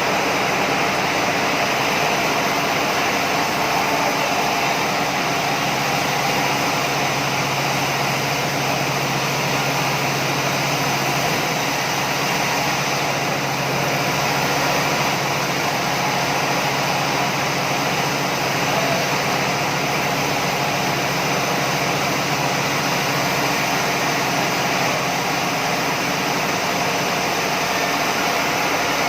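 Sawmill machinery running steadily, a loud continuous mechanical drone with a constant hum and no breaks or impacts.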